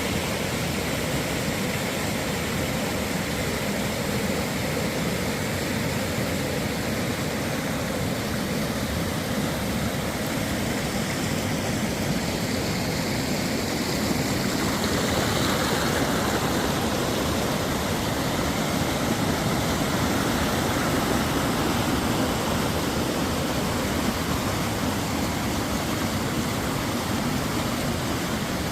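River water flowing in a steady rush, a little louder for several seconds in the middle.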